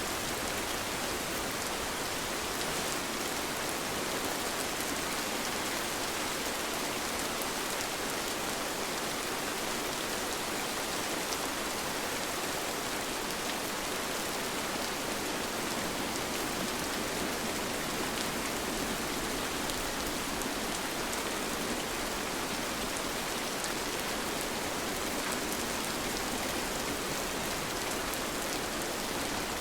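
Steady rain falling, an even hiss with scattered drops pattering on surfaces, unchanging throughout.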